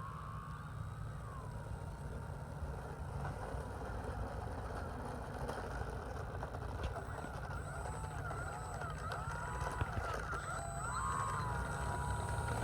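Electric motor and propeller whine of an E-flite T-28 Trojan RC plane in flight, its pitch gliding up and down as it throttles and passes, over a steady low rumble.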